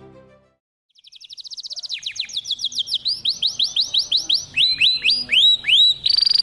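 Domestic canary singing a song built of repeated-note phrases: a fast trill, then slower downward-sweeping notes a few a second, then rising notes and a fast high trill near the end.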